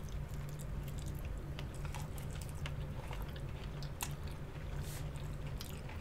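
Close-up chewing and biting while eating sauced chicken wings: scattered wet mouth clicks and small crunches, over a low steady hum.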